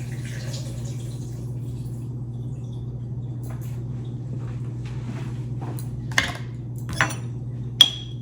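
Kitchen utensil knocking against a dish three times near the end, about a second apart, the last knock the loudest with a short ring, over a steady low hum.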